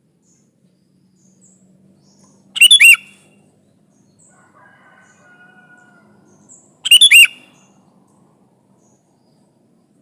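Sooty-headed bulbul (kutilang) singing two short, loud song phrases about four seconds apart, with faint high chirps in between.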